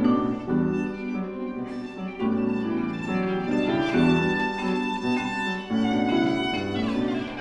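Live chamber music: a bowed viola plays sustained notes over a struck keyboard accompaniment.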